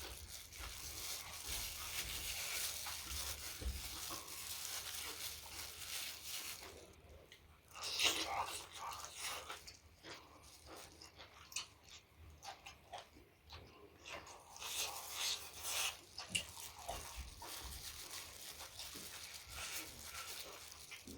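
Close-miked chewing and mouth noises of someone eating. They are dense for the first several seconds, then come in irregular bursts with short pauses.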